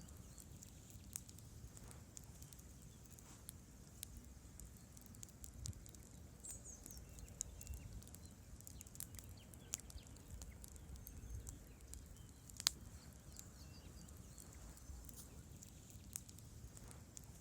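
Wood campfire burning, faint, with scattered crackles and pops from the burning logs over a steady low rumble; one pop about two-thirds through is clearly louder than the rest.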